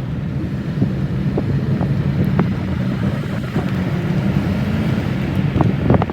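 A road vehicle on the move: a steady low engine and road drone, with a few short sharp clicks over it.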